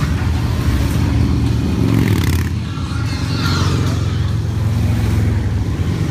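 A steady stream of motorcycles riding past, their engines rumbling together without a break, with individual bikes rising and falling in pitch as they go by about two to four seconds in.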